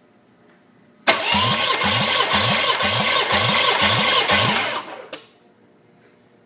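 Starter motor cranking a Nissan VG30DE 3.0-litre V6 during a compression test, a steady whine with an even chug about twice a second from the compression strokes. It runs about four seconds and stops, with a short click just after. The engine's cylinders tested at 195 to 205 psi.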